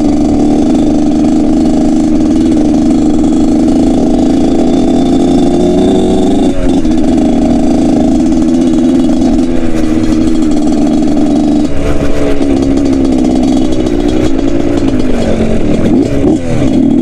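Motorcycle engine running hard at fairly steady high revs, with brief drops in revs about six and twelve seconds in and the pitch wavering up and down near the end.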